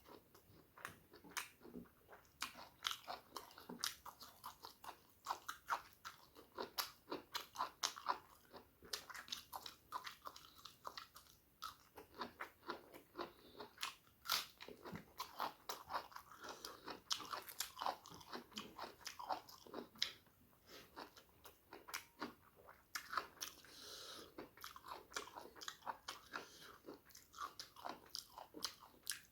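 Close-miked chewing and biting of food, many irregular wet clicks and crunches without pause.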